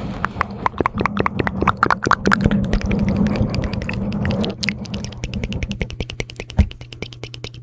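Close-miked ASMR mouth sounds: rapid wet clicks and smacks, several a second, with a soft hiss under them for the first four and a half seconds.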